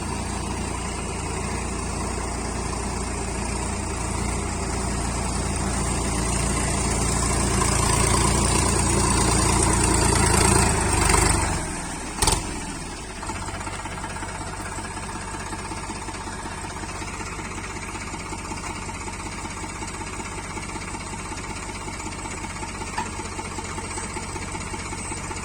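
Tractor diesel engine building up and labouring under load as it strains on a tow chain to drag a mired tractor, growing louder for several seconds. About twelve seconds in it drops back sharply with a single sharp knock, then runs on steadily at lower revs.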